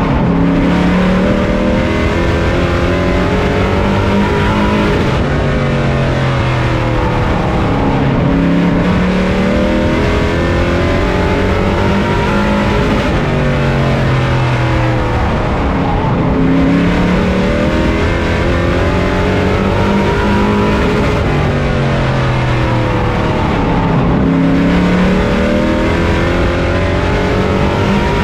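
Pro truck race engine heard on board at racing speed, its revs dropping and climbing again about every four seconds as the driver lifts into each turn and accelerates back onto the throttle.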